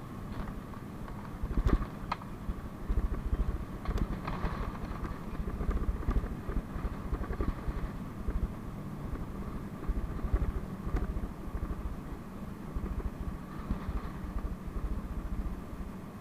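PAZ-32054 bus on the move, heard from inside: a steady low engine and road rumble with a hum, broken a few times by sharp knocks and rattles.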